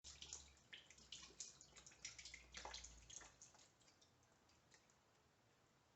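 Faint water dripping and splashing from the open filter port of a tankless water heater into a bucket. A quick run of drips thins out after about three seconds.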